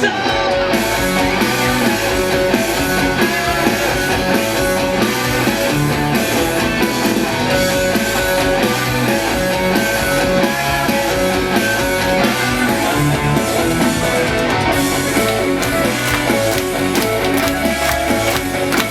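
Live rock band playing an instrumental break, with a guitar leading over the rhythm section.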